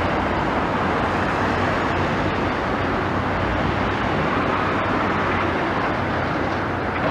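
Steady motor vehicle noise, unbroken and even in level.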